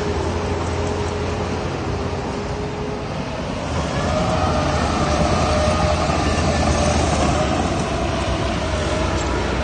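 Heavy diesel earthmoving machinery running steadily with a deep drone, picking up revs and getting louder about four seconds in as it works under load.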